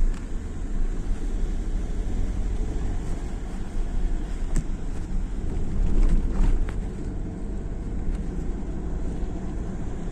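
Steady low rumble of a vehicle on the move, engine and road noise together, with a few brief knocks about halfway through.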